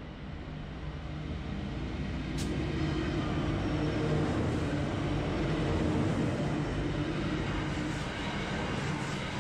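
Three QUBE QE-class diesel-electric locomotives hauling a loaded grain train past at close range. Their engines give a low, steady drone that grows louder as the lead unit comes by, with one sharp click about two seconds in.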